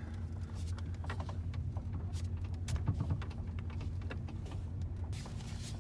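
Dodge Ram pickup's engine idling, heard from inside the cab, with a faint steady whine and grind from the power steering as the wheel is turned, plus a few light clicks. The grind comes from power steering fluid running low.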